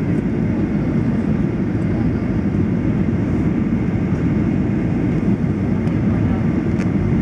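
Steady cabin noise inside a Boeing 737-800 on approach, heard from a rear window seat. It is an even, unbroken rumble, heaviest in the low end.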